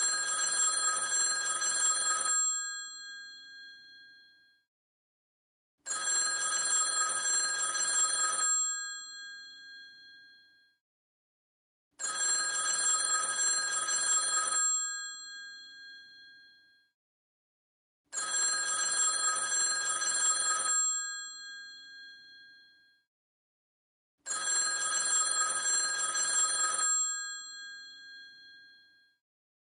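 Old telephone's mechanical bell ringing in rings of about two and a half seconds, each ringing on and fading after it stops, repeating about every six seconds: five rings.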